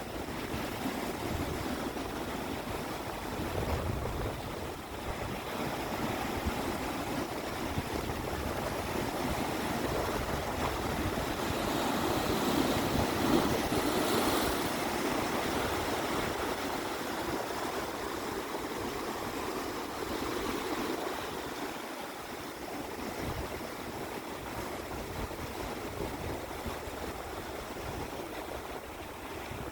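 Sea waves washing in, a steady rushing that swells to its loudest about halfway through and then eases.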